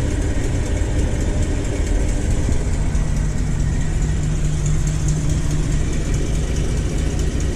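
1984 Chevy B60 school bus's 366 cubic-inch gasoline V8 idling steadily, still cold just after a cold start.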